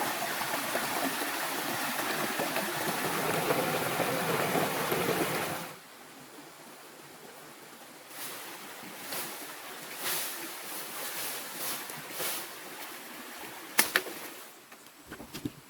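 Steady rushing of flowing water, like a rainforest stream, cutting off abruptly about six seconds in. It gives way to a much quieter stretch with scattered light rustles and two sharp clicks near the end.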